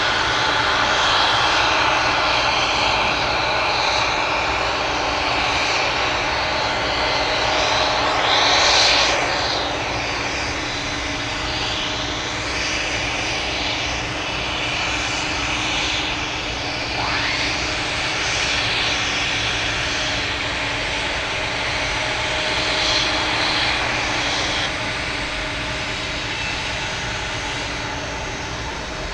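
Boeing 747-400F freighter's jet engines running steadily while it taxis, a continuous engine rush with faint steady tones that swells briefly about nine seconds in and eases off slightly near the end.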